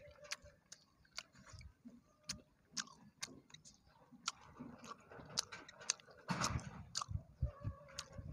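A man chewing a mouthful of pig skin and raw vegetables close to the microphone: wet clicks and crunches a few times a second, getting louder about six seconds in.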